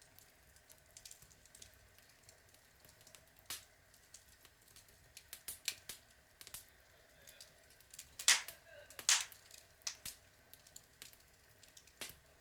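Log fire crackling: scattered sharp pops and snaps over a faint hiss, with two louder pops a little past the middle.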